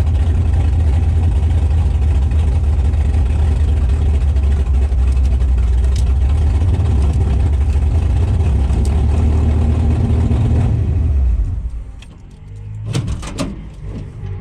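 Drag-racing pickup truck's engine running loud and steady for about eleven seconds, then dropping away sharply. A few sharp knocks follow near the end.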